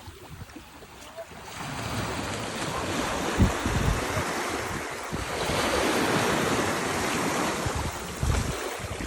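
Atlantic surf washing onto a sandy beach, the rush building about a second and a half in and swelling again about halfway through, with wind buffeting the microphone in a couple of low thumps.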